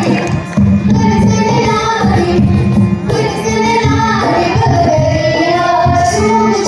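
Young girls' voices singing an Indian folk song melody over instrumental accompaniment.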